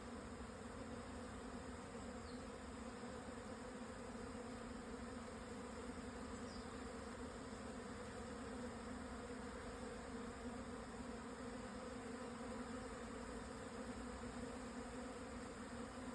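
A swarm of Japanese honeybees buzzing during swarming: an even, unbroken hum that does not rise or fall.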